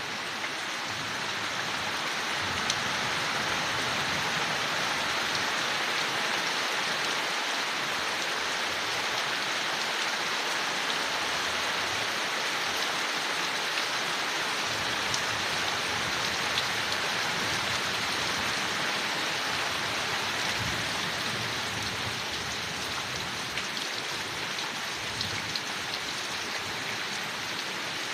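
Steady rain falling on leaves, a continuous hiss with scattered individual drop ticks; it swells a little in the first few seconds.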